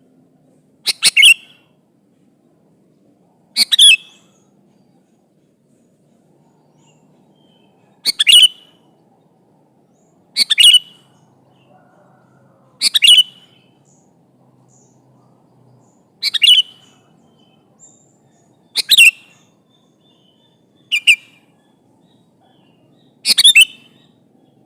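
Sooty-headed bulbul (kutilang) calling: short bright phrases of two or three quick notes, repeated about every two to three seconds, nine times.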